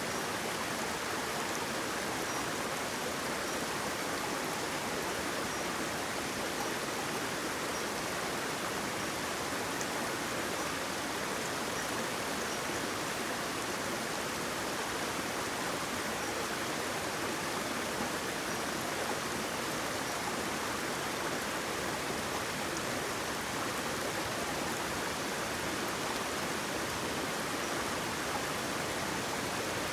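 Water flowing down a waterfall: a steady, even rushing that does not change.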